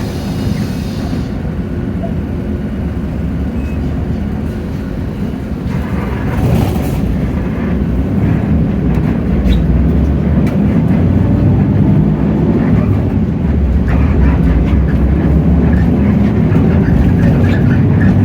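Hino J08E-VN 7.7-litre diesel engine of a Hino RK8JRVA city bus running, heard from inside the bus, getting louder from about six seconds in as it pulls harder. A brief hiss about six seconds in.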